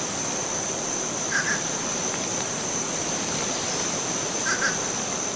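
Woodland nature ambience: a steady high-pitched insect drone, like crickets, over an even hiss. A short soft call sounds twice.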